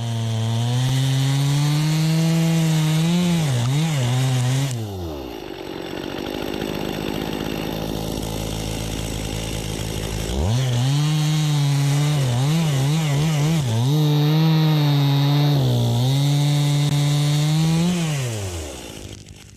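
Chainsaw engine revving at high speed with its pitch wavering, dropping to idle for about five seconds in the middle, then revving up again and dying away near the end.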